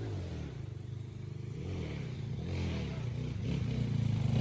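Underbone motorcycle engine running and revving, its pitch wavering and getting steadily louder toward the end.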